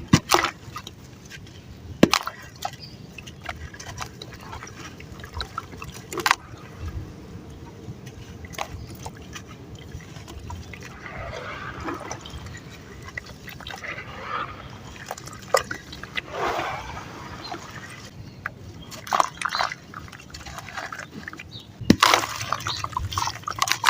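Chunks of dried sand and cement crumbling in water, with a few sharp plops and splashes and stretches of soft crackling and sloshing in between.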